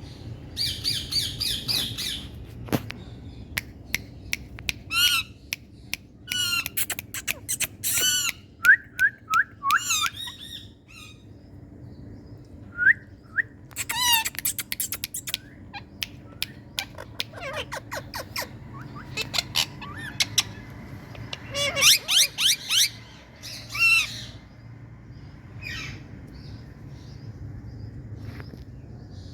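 Indian ringneck parrots squawking in fast runs of harsh, repeated screeches, in bouts with short pauses, and only a few faint calls near the end.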